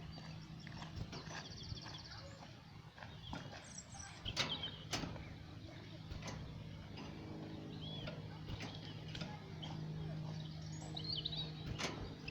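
Goldfinch giving short high chirps and a brief buzzy twitter at scattered moments, with several sharp knocks (the loudest about four to five seconds in) and a steady low hum behind.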